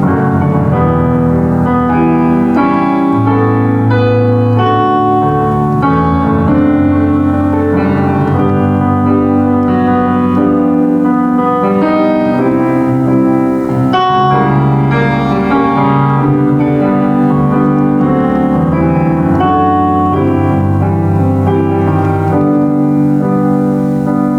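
Solo piano playing a hymn arrangement in full chords with a melody on top, ending its final chord near the close.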